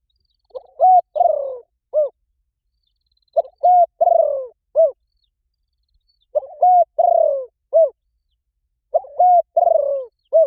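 Spotted dove giving its calling song: four cooing phrases about three seconds apart. Each phrase is a short note, two clear coos, a longer falling coo and a short closing note.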